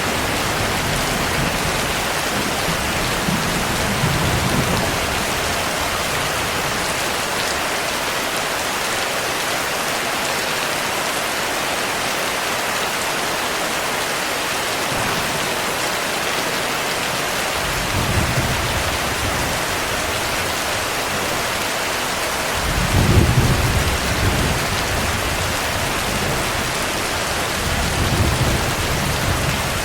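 Steady heavy rain with low thunder rumbles rolling in several times, the strongest about 23 seconds in.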